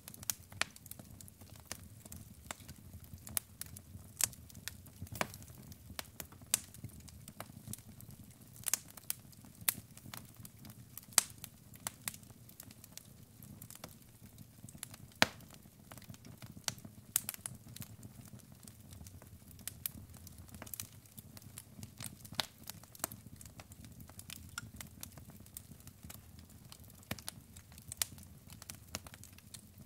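Logs burning in a fireplace, crackling with irregular sharp pops and snaps over a low, steady rumble of the flames.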